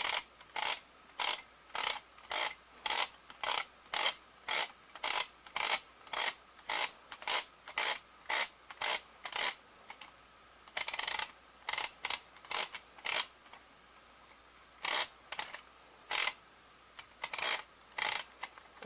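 The tape reels of a VHS cassette being turned by hand, a short scraping click with each push, about three a second. The strokes stop for about a second and a half near the middle and come back in a few irregular groups.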